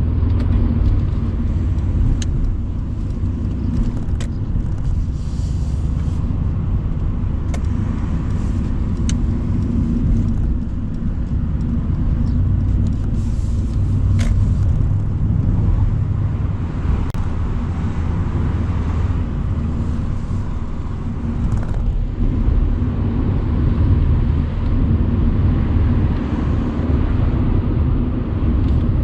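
Mercedes-AMG C63's twin-turbo 4.0-litre V8 running at a steady cruise, a deep even drone under road and wind noise from the open-topped convertible. A few short sharp clicks sound here and there.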